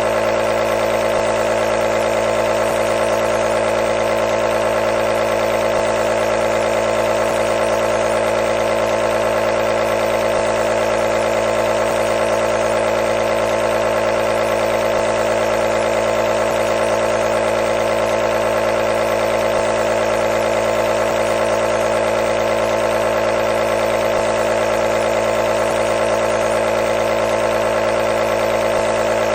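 Compressor nebulizer running: a steady motor hum with no change in pitch or level.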